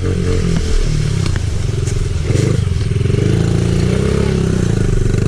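Small off-road vehicle engine running under a rider on a trail, its pitch climbing about two seconds in and then rising and falling with the throttle.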